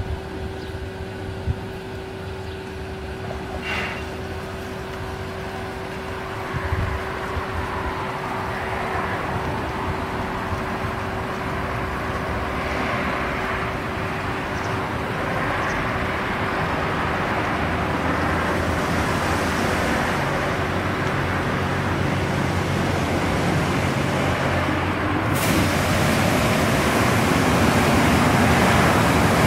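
Self-service car wash equipment running: a steady motor hum under a spray-like hiss that grows gradually louder, with a sudden stronger burst of spray about 25 seconds in.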